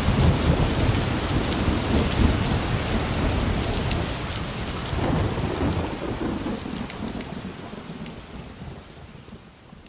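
Steady heavy rain with low rolls of thunder, one at the start and another about five seconds in, and a few faint fireplace crackles. The whole ambience fades out over the last few seconds.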